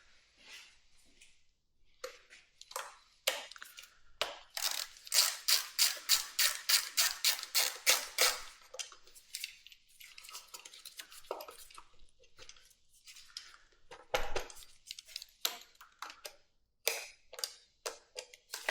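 Hand tools working on a motorcycle: scattered clicks and knocks, then a run of quick, even scraping or clicking strokes at about four a second lasting around four seconds, followed by more irregular knocks.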